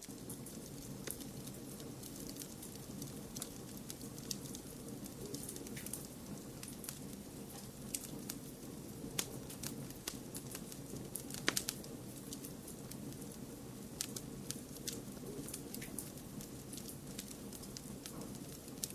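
Wood fire crackling in a fireplace: irregular sharp pops and snaps over a steady low hiss of white noise, with a few louder pops about halfway through.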